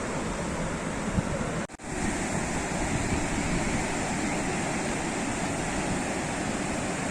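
Sea waves washing on the shore in a steady rush of surf. The sound cuts out for a split second just under two seconds in.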